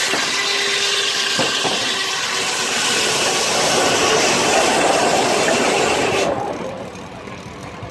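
Sawmill saw, driven by a 1926 Keck-Gonnerman steam traction engine, cutting through a log with a loud hissing rasp. The cut ends about six seconds in and the sound drops sharply to a lower running noise.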